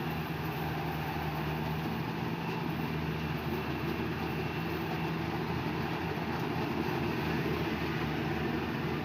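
Engine of rice harvesting machinery running steadily, a constant hum under a broad hiss.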